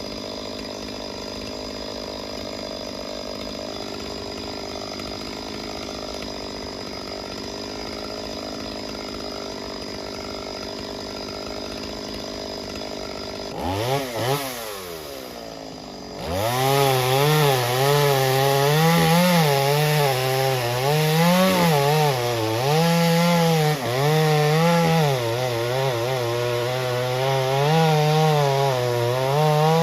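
Two-stroke chainsaw idling steadily, then revved up about halfway through. After a short drop it runs loud at high throttle, cutting wood, its pitch sagging and recovering again and again under the load.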